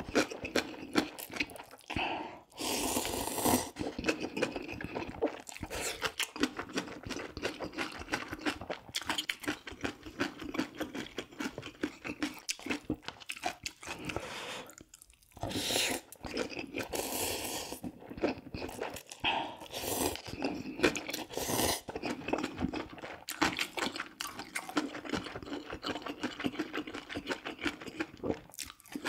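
A person eating close to the microphone: a dense, continuous run of small wet chewing clicks and crunches, with a few louder, longer noisy stretches.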